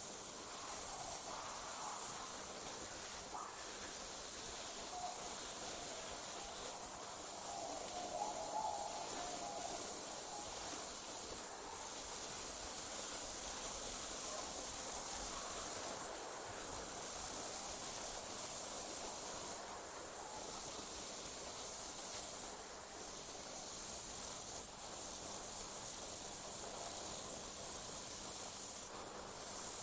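Night insects trilling: a continuous high-pitched shrill that drops out briefly every few seconds.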